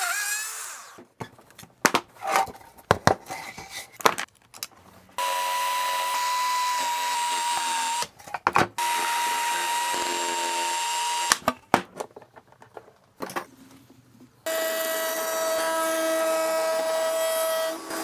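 Electric woodworking power tool running in three steady, even-pitched bursts of a few seconds each, the last one lower in pitch. Between the bursts come clusters of sharp knocks and clatter from wood and tools being handled.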